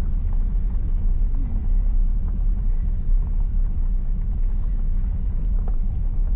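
Car moving slowly, a steady low rumble heard from inside the cabin.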